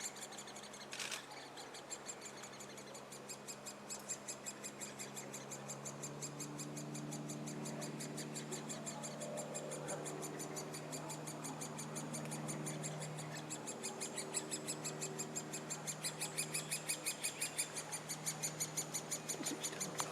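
Great spotted woodpecker nestlings calling from the nest hole in a fast, unbroken series of short high calls, about four a second, getting louder in the last few seconds: young birds begging, close to fledging.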